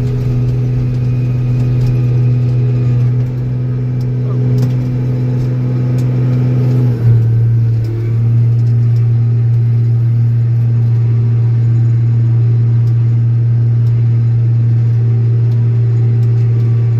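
Old Steiger four-wheel-drive tractor's diesel engine running steadily under load. About seven seconds in, the engine note steps down slightly with a brief thump, then holds steady again.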